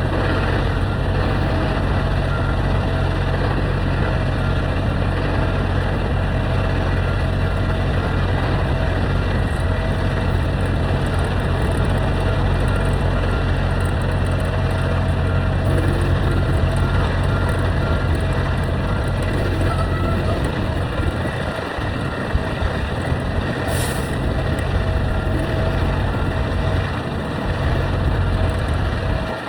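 Truck engine and road noise heard from inside the cab while driving: a steady low drone with a constant hum.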